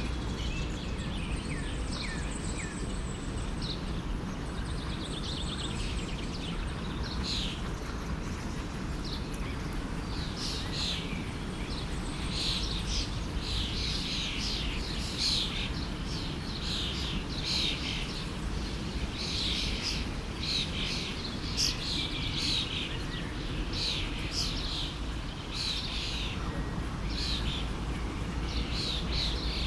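Forest stream flowing steadily, with birds chirping over it. The chirps are sparse at first and become a busy run of short, high, repeated calls from about ten seconds in.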